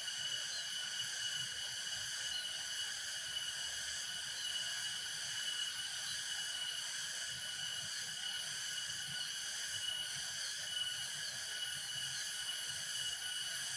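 Steady, high-pitched chorus of insects chirring continuously, with several pitches held at once and no breaks.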